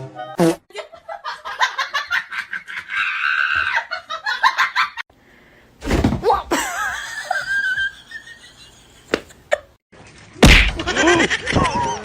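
A person laughing in quick, repeated bursts, followed after a short pause by wavering voice-like calls.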